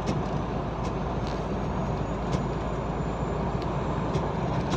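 Steady engine and road noise inside a truck cab while driving, with a low hum and a few faint, irregular ticks.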